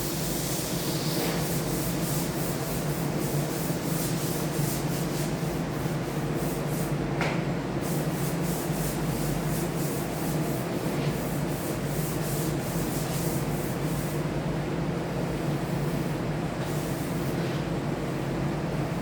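Wood being sanded, sandpaper rubbing in repeated strokes over a steady low hum. This is the final sanding of the surface before the top coat.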